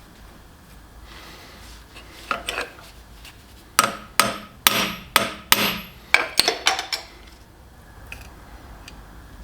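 Metal being struck with a hammer in a metal shop: a couple of light knocks, then a quick run of about ten sharp metallic blows with short ringing, typical of tapping a workpiece or tool into place on a lathe.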